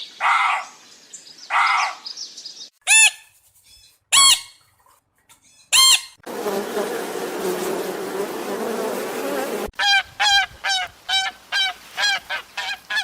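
Goose-like honking bird calls. Two rough calls come first, then three sharp single honks a second or so apart. A stretch of dense harsh noise lasts about three seconds, and the last few seconds hold a fast run of honks, several a second.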